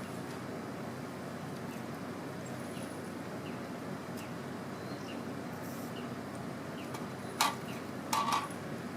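Campfire burning with a steady low rush and scattered small crackles. Two sharper, louder pops come near the end.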